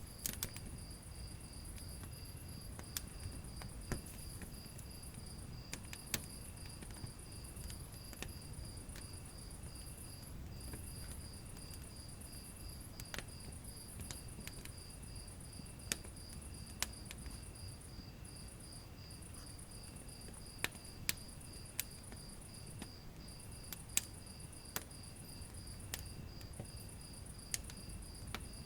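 Wood fire burning in a fireplace, with a low rumble and scattered sharp crackles and pops. A cricket trills steadily throughout, in a high, rapidly pulsing chirp.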